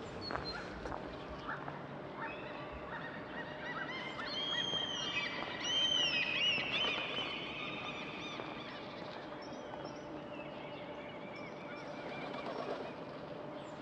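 Birds chirping and singing, a busy run of quick high chirps and warbles that peaks around the middle.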